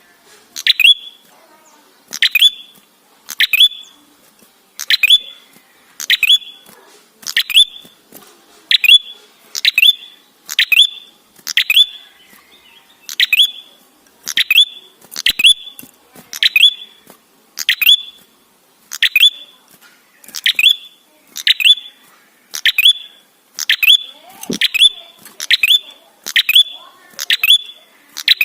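Tailorbird (prenjak kepala merah) calling over and over: short, sharp, loud chirps, often in quick pairs, repeated at an even pace of a little under one a second.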